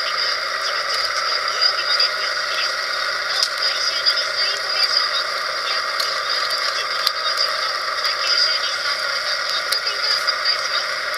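A steady chorus of calling frogs, with scattered faint crackling clicks from the campfire.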